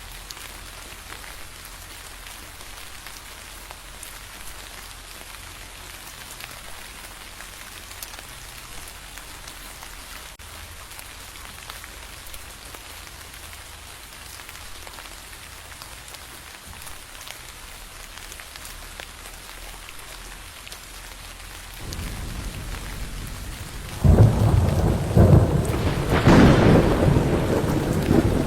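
Steady rain falling. About two thirds of the way through, a deep rumble of thunder builds, then breaks loudly about a second or two later and rolls on to the end.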